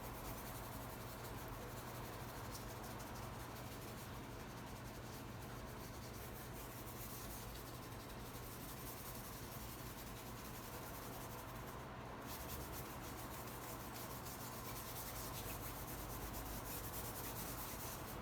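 Faint, steady rubbing of a soft-bristled paintbrush across canvas as paint is spread, over a low steady hum.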